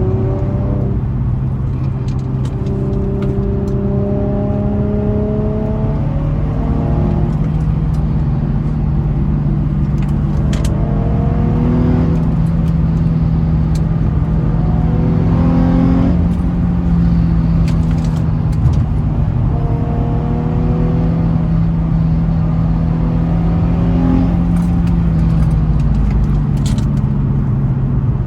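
Infiniti G35's 3.5-litre V6 on its stock exhaust, heard from inside the car while driving. The engine note climbs and then drops back several times as the car accelerates and shifts.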